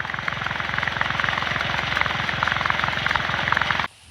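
Engine running with a rapid, even chugging and a clicking rattle over it; it cuts off suddenly near the end.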